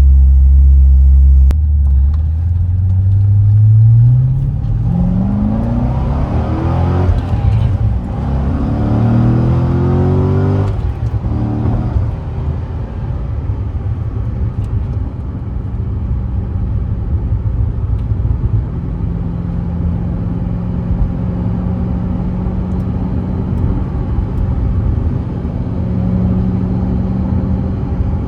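Corvette Z06's 7.0-litre LS7 V8 under hard acceleration: a steady low drone for about a second and a half, then the engine note rises, drops at an upshift, and rises again. About eleven seconds in it changes abruptly to a steady low rumble as the car cruises.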